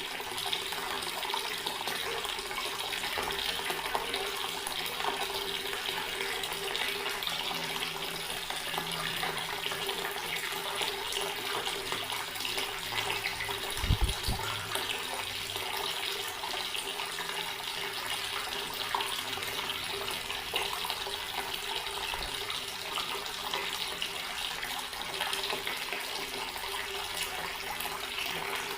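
Water tap running in a steady stream, splashing into a sink, with a faint steady hum beneath. A single dull low thump about halfway through.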